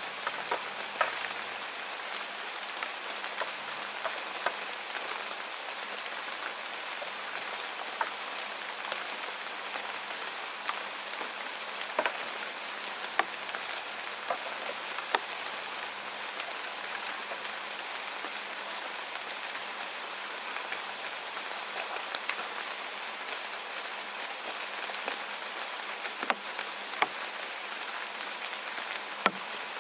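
Steady rain falling, an even hiss with many scattered sharp drop-hits.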